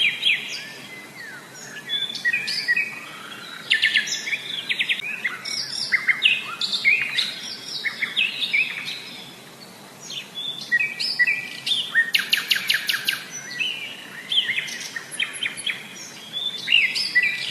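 Birds chirping and calling: many short chirps and fast trills that overlap in clusters, with quieter gaps a couple of seconds in and again around the middle.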